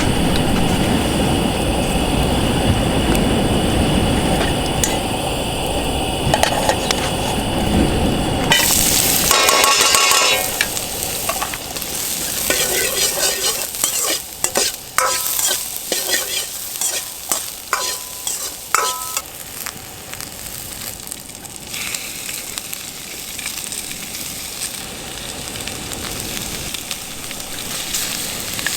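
Campfire cooking sounds. A steady low rumble fills the first several seconds. Then a metal utensil clinks and scrapes against a pot, with short ringing clinks, over food sizzling.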